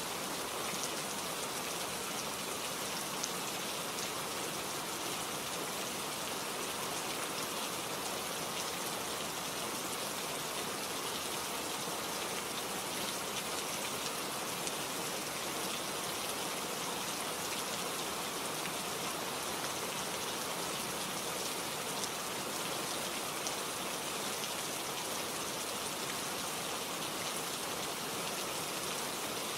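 Steady rain falling, with many fine drop ticks on leaves.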